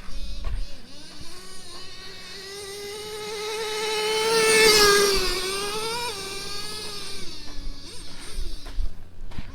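Traxxas T-Maxx 3.3's two-stroke nitro engine running at part throttle, about half by the driver's reckoning. Its buzzing note rises and grows louder to a peak about halfway through, then drops in pitch and fades as the truck passes and moves away.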